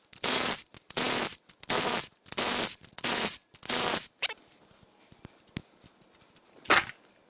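Metal pushrods clattering one after another as they are set down, about seven in quick succession, then a few light clicks and one more clatter near the end.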